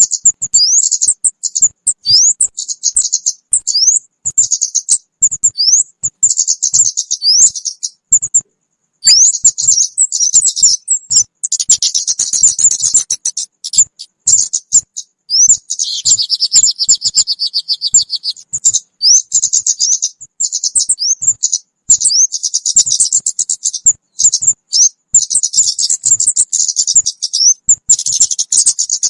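Recorded calls of the kemade bird played as a trapping lure: rapid high chirps and short sweeping whistled notes in bursts separated by brief pauses. A denser, buzzier trill comes in about halfway through.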